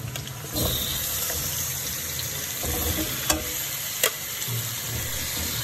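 Marinated chicken sliding into hot oil in a kadai: a steady sizzle starts about half a second in as the pieces hit the oil. Twice near the middle, a slotted steel spoon clinks against the steel bowl as it pushes the chicken out.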